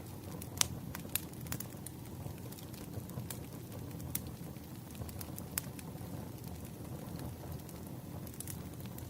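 Wood fire crackling: irregular sharp pops and snaps over a steady low rumble, the loudest pop a little over half a second in.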